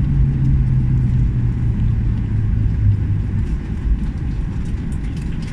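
Airliner landing heard from inside the cabin: a steady low rumble with a low engine tone that falls slightly in pitch and fades out about three seconds in, as the engines wind down.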